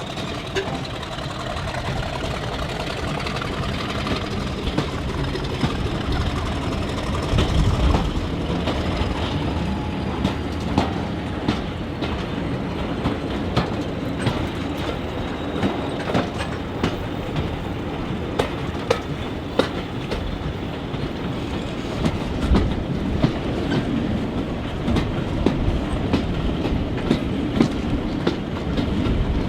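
Train running along the track: a steady rumble with the wheels clicking over rail joints again and again.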